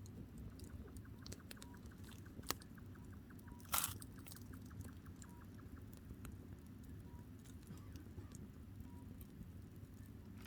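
Firewood burning in a campfire, crackling softly over a low rumble, with a sharp crack about two and a half seconds in and a louder pop about four seconds in.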